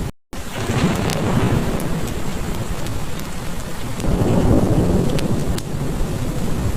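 Heavy rain hissing steadily under a continuous low thunder rumble that swells about four seconds in, with scattered sharp crackles from a wood fire. The sound cuts out for a split second just after the start.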